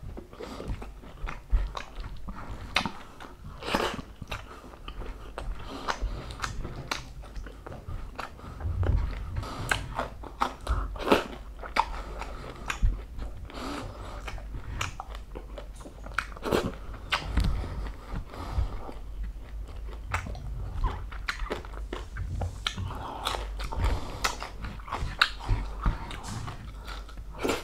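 Chewing and biting into crispy pata (deep-fried pork knuckle), its crackling skin giving many sharp, irregular crunches.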